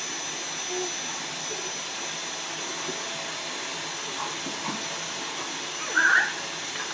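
Young Amazon parrot giving a few soft chirps and one short, louder call about six seconds in, over a steady rushing background noise.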